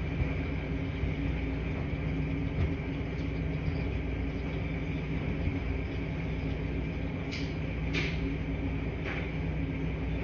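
Laundry room ambience: washing machines running with a steady low hum and rumble. Three short, faint clicks come near the end.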